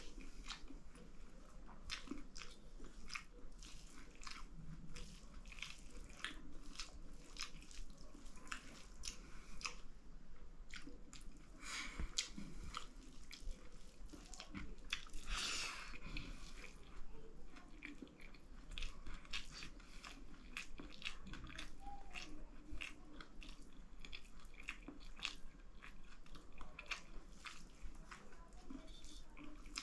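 Wet chewing and mouth clicks of someone eating dal bhat, rice with lentil soup, many short clicks in a steady run. About fifteen seconds in there is a longer, louder noisy sound lasting about half a second.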